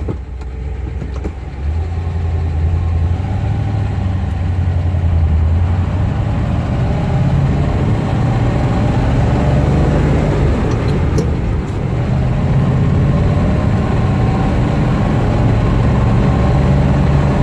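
1956 Ford Thunderbird's 312 V8 running as the car drives off, its sound growing over the first couple of seconds and then holding steady, with road and wind noise around it.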